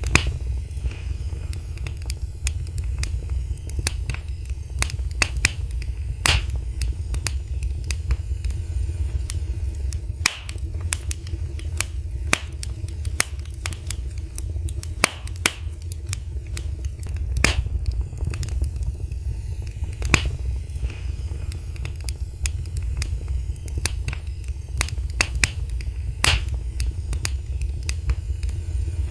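Wood fire in a fireplace crackling, with frequent sharp pops at irregular intervals over a low steady rumble.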